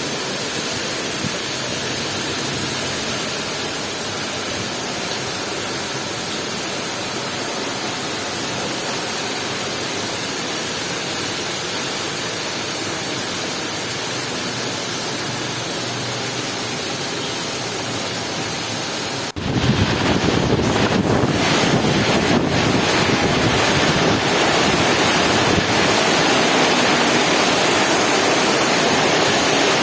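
Heavy rain falling with a steady hiss. About two-thirds of the way through it cuts suddenly to louder, heavier rain with a low rumble and irregular crackling.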